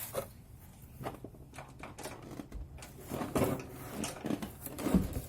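Light knocks, clicks and scrapes of things being handled and set down, growing busier in the second half with a heavier thump near the end.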